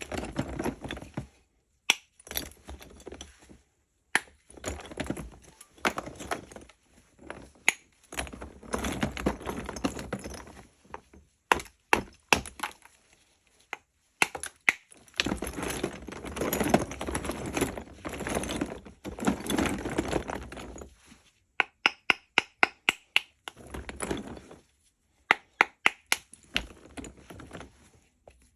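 Lumps of Barsuk natural chalk being broken apart: sharp cracks and snaps, with longer stretches of crumbly scraping, and runs of quick clicks in the second half.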